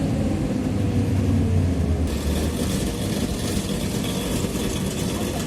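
Interior of a TrolZa-5275.05 Optima trolleybus slowing down: the Ishimbay rear axle's gear whine falls in pitch over a low motor hum. About two seconds in, a steady hiss joins.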